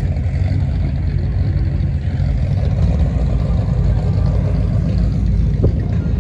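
A car engine running steadily nearby, a loud, even low rumble with no revving.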